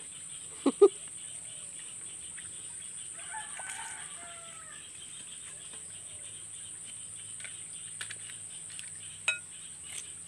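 Chickens close by: two short, loud clucks about a second in, then a faint rooster crow a few seconds later, over a steady high insect buzz.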